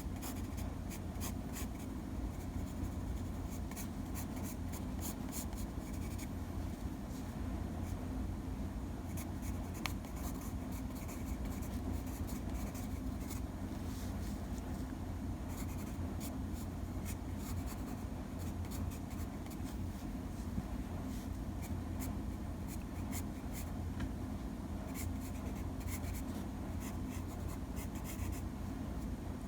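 Drawing strokes: a drawing tool scratching across paper in short, irregular strokes, over a steady low hum.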